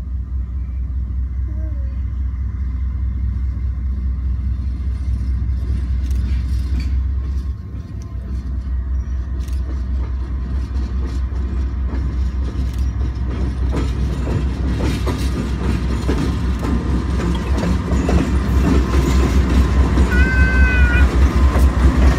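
Union Pacific diesel locomotives approaching and passing close by: a deep steady engine rumble, with the clatter of wheels on rail growing louder over the last several seconds as the lead units draw level.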